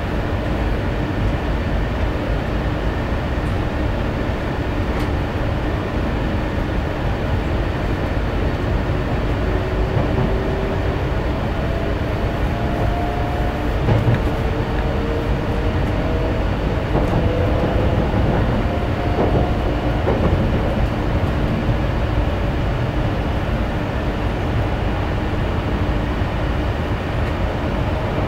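Shinkansen train running, a steady heavy rumble with faint rising motor whines in the middle and a single knock partway through.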